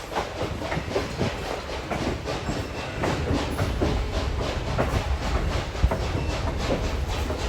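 Railroad passenger train rolling along the track: a steady low rumble with frequent, irregular clicks and knocks of the wheels over the rails.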